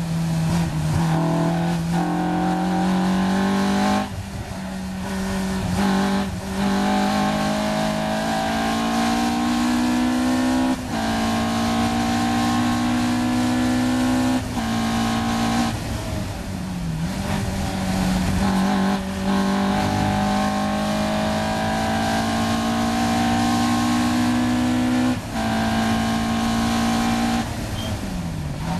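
Caterham R 400's four-cylinder engine at high revs on a flat-out lap, heard from the open cockpit. The pitch climbs steadily through each gear and breaks with a short drop at every gearchange, about every two to five seconds. Near the end there is a quick dip and rise in pitch, as on a downshift.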